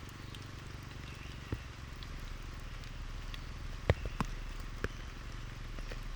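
Steady background noise with a few sharp knocks, the loudest about four seconds in.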